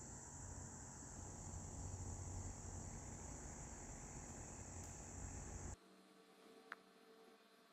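Faint steady high-pitched trill of crickets over a low hum. It cuts off suddenly about three-quarters of the way through, leaving quieter background with a couple of faint ticks.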